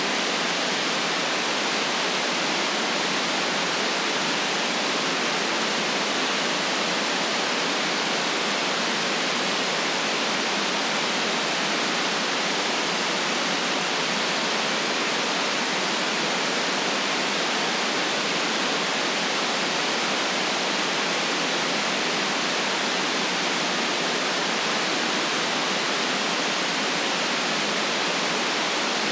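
Steady synthetic white noise: an even, unchanging hiss with no deep bass and no top end.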